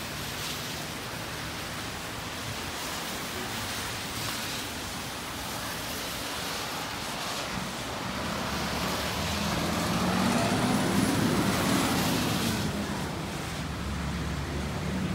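Heavy rain hissing steadily on wet pavement. From about eight seconds a motor vehicle on the wet road swells in with an engine hum and tyre noise, loudest around eleven seconds, then eases, with a low engine hum still going near the end.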